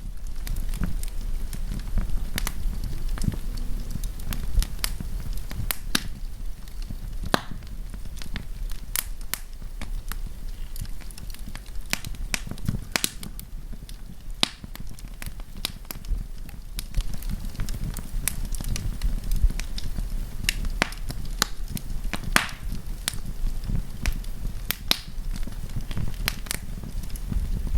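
Wood fire crackling, with sharp irregular pops and snaps over a steady low rumble of burning.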